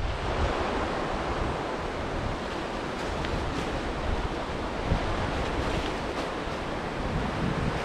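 Steady rush of river water flowing under the bridge, with wind buffeting the microphone and adding an uneven low rumble.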